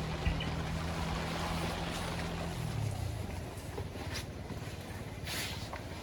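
Honda CB350 RS's single-cylinder engine running on a steady note that drops in pitch and fades about three seconds in as the throttle is rolled off, leaving a steady rushing noise of wind and road.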